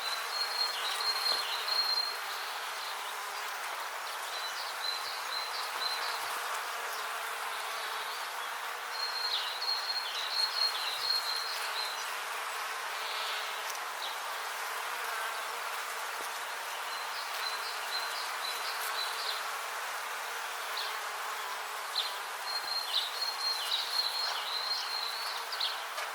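Steady buzzing of many bees. Short bursts of high chirping come back every few seconds over it.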